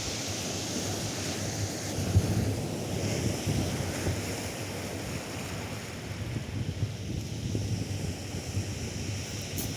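Atlantic surf washing onto a sandy beach, a continuous wash of noise that swells and ebbs, with wind buffeting the microphone as a low rumble.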